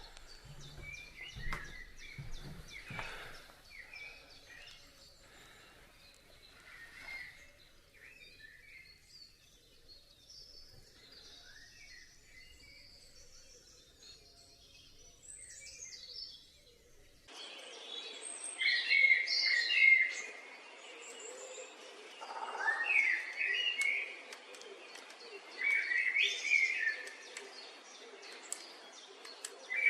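Wild woodland birds singing: faint scattered chirps at first, then from about halfway louder song phrases that come back every few seconds.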